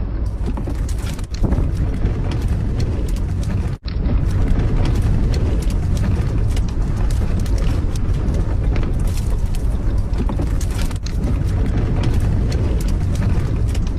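Strong gale wind blowing and buffeting against the microphone and the small camper, a loud, deep, steady rush with constant gusty fluctuation. It briefly drops out right at the start and again about four seconds in.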